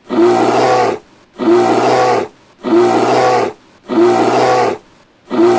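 Bear roar sound effect, the same short growling roar played five times in a row, a little over a second apart.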